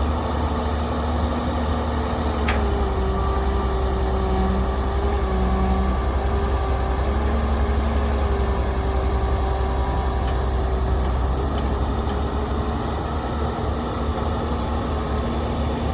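Heavy construction machine's engine running at a steady speed: a deep, even rumble with a steady hum above it. A faint click comes about two and a half seconds in.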